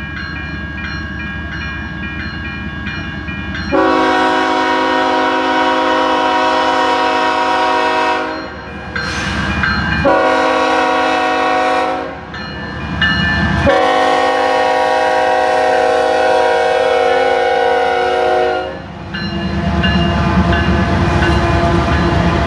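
A Union Pacific freight locomotive's air horn sounds three blasts: a long one about four seconds in, a shorter one near the middle, then another long one. Afterwards the train's diesel locomotives pass with a loud low rumble.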